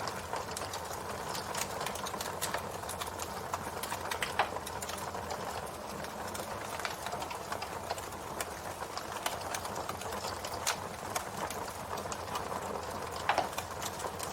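Campfire burning, the wood crackling with many irregular small snaps over a steady hiss. There is a louder pop about four seconds in and another near the end.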